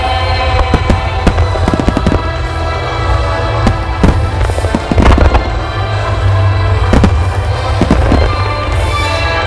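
Aerial fireworks shells bursting in quick, irregular succession, with deep booms and sharp cracks, over loud music playing throughout.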